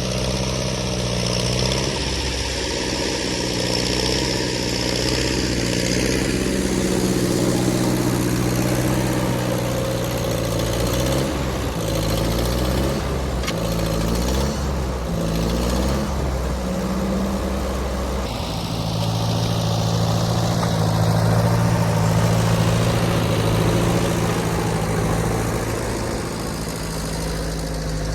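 Ford N-series tractor's four-cylinder engine running under load while pushing snow. Its revs rise and fall in the middle, with a few knocks, then settle to a steady pitch.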